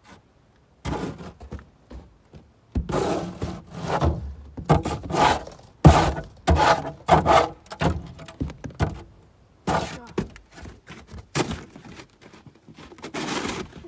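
Items being dragged and dropped while clearing out a pickup truck bed: a string of irregular thunks and scrapes.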